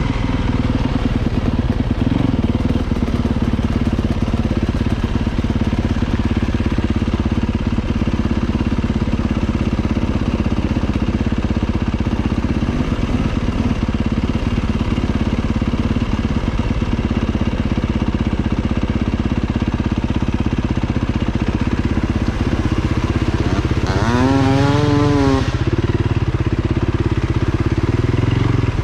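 Off-road motorcycle engine running steadily while riding, with one quick rev that rises and falls near the end.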